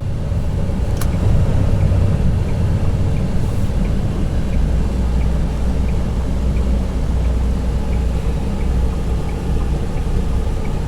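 Semi-truck cab noise while driving: a steady low engine and road drone, with one sharp click about a second in and faint regular ticking about every 0.7 seconds.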